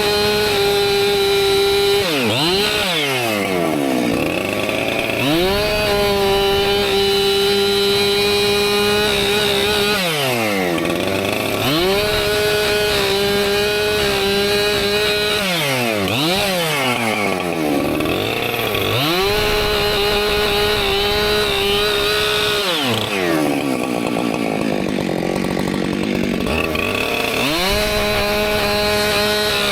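Husqvarna two-stroke chainsaw cutting firewood at high revs. The engine note holds steady for several seconds at a time, then drops and climbs back up, about every six seconds. A longer dip comes near the end.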